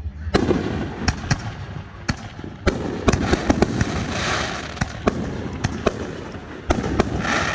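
Fireworks show going off: a rapid series of sharp bangs and booms, several a second at times, with bursts of crackling about four seconds in and again near the end.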